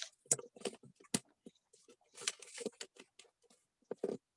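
Light taps, clicks and a brief rustle as a ribbon is handled and knotted on a cardboard gift box.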